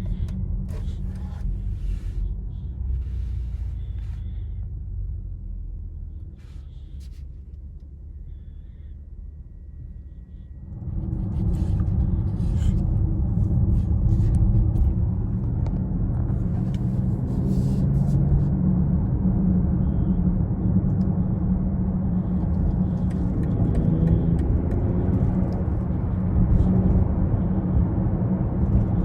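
2020 BMW X6 40i's turbocharged 3.0-litre inline-six and road noise while driving. The sound eases off and goes quieter for a few seconds, then rises sharply about eleven seconds in as the car pulls away, with the engine note climbing in pitch as it accelerates.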